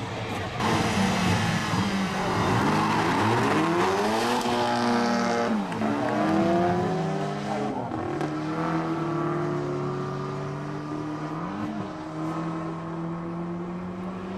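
Drag racing cars accelerating hard down the strip, the engine note climbing in pitch and dropping at gear changes, with tyre noise in the first few seconds, then settling to a steadier engine drone near the end.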